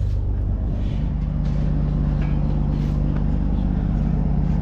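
Peterbilt 379 semi truck's heavy diesel engine running steadily at idle.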